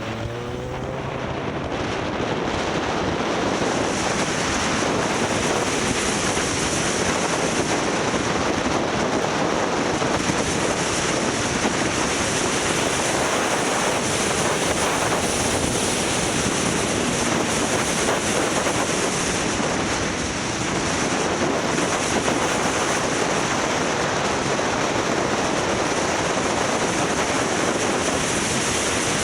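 Wind rushing over the microphone of a camera on a moving motorcycle, a steady roar that buries the engine; in the first second the engine is heard rising in pitch as it speeds up.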